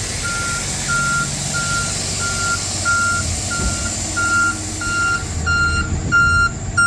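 Backup alarm beeping steadily, about one and a half beeps a second, over a diesel truck engine running. About five seconds in, a second, higher-pitched beeping joins in.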